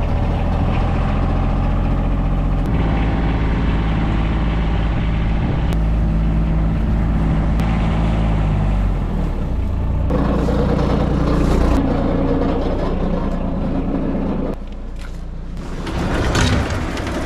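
A vehicle engine running steadily. It changes pitch about ten seconds in, and it turns quieter near the end.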